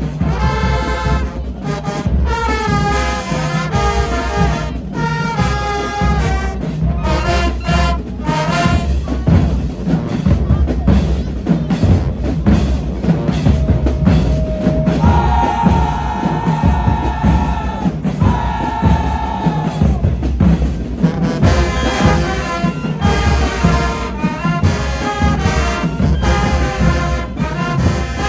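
High school marching band playing: brass section (trumpets and trombones) over a steady drum beat, with two long held notes about halfway through.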